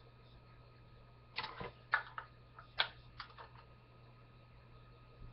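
Small plastic toy-mixer beater blades clicking and rattling as they are handled and snapped into a doll-sized mixer: a short rattle about a second and a half in, then several sharp separate clicks.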